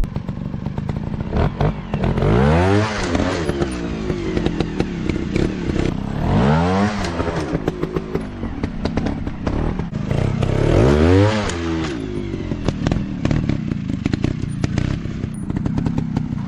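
Off-road motorcycle engine running and revving, its pitch rising and falling back three times, with clattering knocks.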